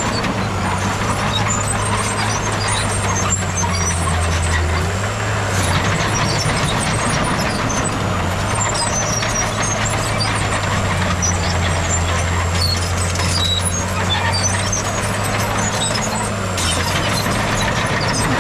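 Heavy diesel engine of earthmoving machinery running steadily under work, its pitch shifting slightly a couple of times, with scattered small clinks over it.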